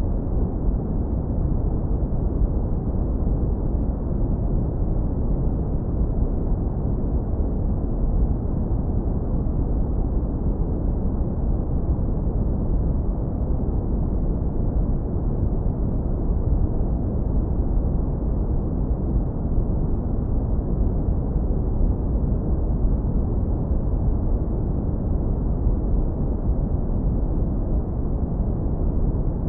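Steady, deep brown noise, heavily low-pass filtered so that only a warm, dull rumble of low end remains, with no changes or events.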